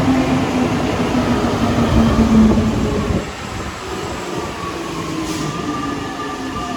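Santiago Metro Line 5 train moving through the station. A loud rumble with a low, slightly falling tone drops away sharply about three seconds in, followed by a quieter whine of several tones slowly falling in pitch.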